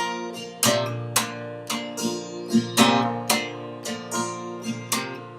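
Acoustic guitar strummed in a steady rhythm, about two strokes a second, with its chords ringing on between strokes.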